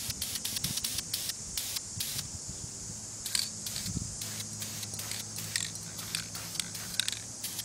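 Aerosol can of Krylon Camouflage ultra-flat spray paint spraying in many short, quick bursts.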